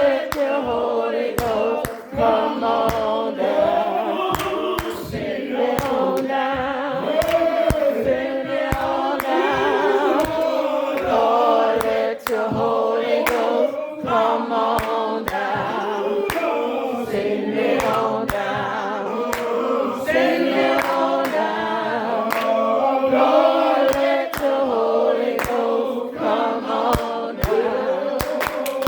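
Church congregation singing a slow gospel hymn together, many voices at once, with sharp claps or hits keeping the beat throughout.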